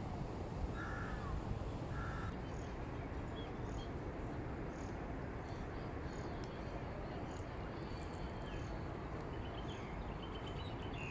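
Birds calling in a park: two short pitched calls about a second apart near the start, then scattered small high chirps and a brief run of chirps near the end, over a steady background rumble.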